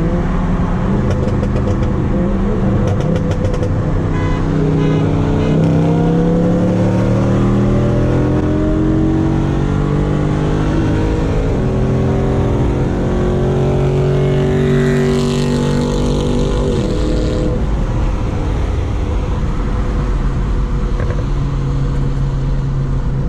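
BMW 335i's straight-piped turbocharged N55 inline-six running hard. The revs climb steadily for several seconds, hold, then drop about two-thirds of the way through and settle to a steady drone.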